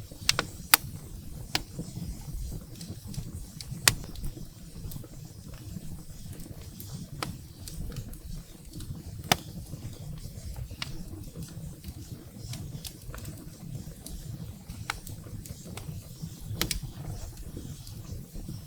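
Wood fire burning in a fireplace: a steady low rumble of the flames with sharp, irregular crackles and pops of burning firewood, a few louder pops standing out.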